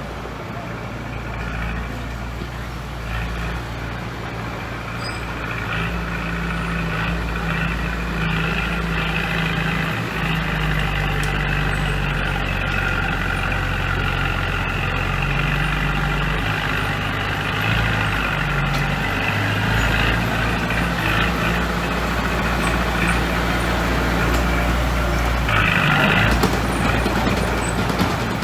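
Heavy diesel engine of construction machinery running continuously, its pitch shifting up and down as it works. A short burst of hissing noise comes near the end.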